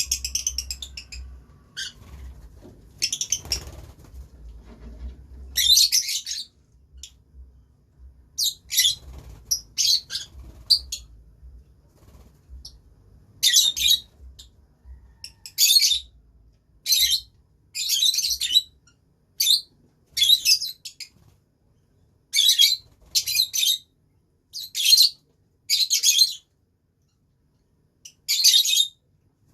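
Lovebirds chirping: short, high-pitched calls repeated at irregular intervals, sparse at first and coming about once a second in the second half.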